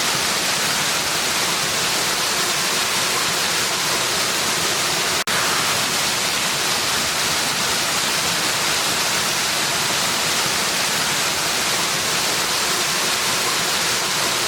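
Steady rushing hiss of a waterfall, unchanging, with a momentary dropout about five seconds in.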